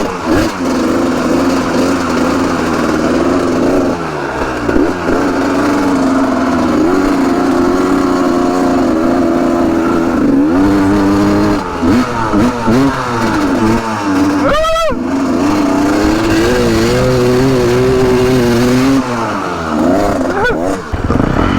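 Motorcycle engine running while being ridden, holding a steady note for long stretches and shifting pitch as the throttle changes, with one quick rev up and back down about fifteen seconds in.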